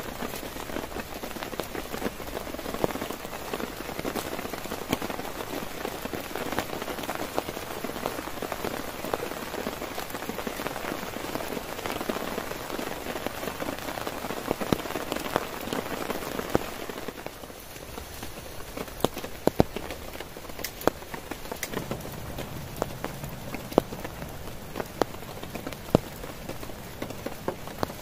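Heavy rain drumming on a tent, a dense steady patter that eases a little over halfway through into lighter rain, with single drops ticking sharply against the fabric.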